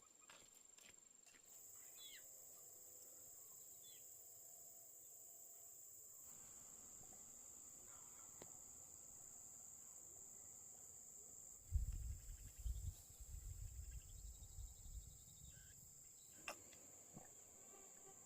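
Insects chirring in a steady high-pitched drone, like a cricket chorus. About twelve seconds in, a few seconds of low rumbling thumps break in.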